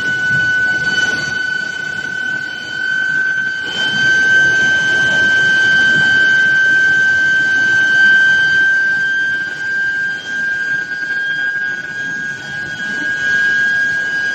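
Induction heating furnace giving a loud, steady high-pitched whine, its pitch creeping slowly upward, over a constant rumbling machine noise.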